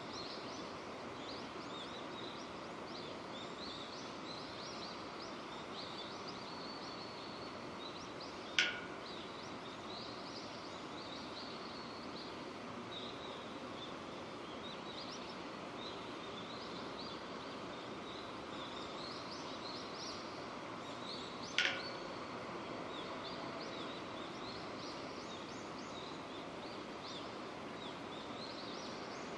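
Steady rain falling, with small birds chirping throughout. Two sharp ticks cut through, about 13 seconds apart.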